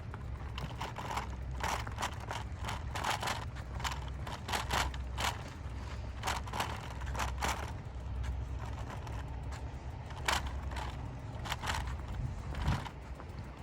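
Two-car diesel limited express train rolling past, its wheels clacking in irregular clusters over the rail joints over a steady low engine rumble.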